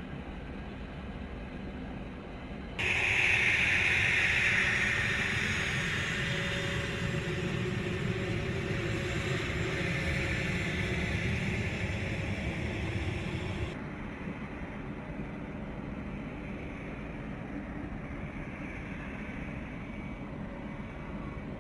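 Steady rushing noise of a jet aircraft in flight. It jumps abruptly louder and brighter about three seconds in, then drops back to a lower steady rush around two-thirds of the way through.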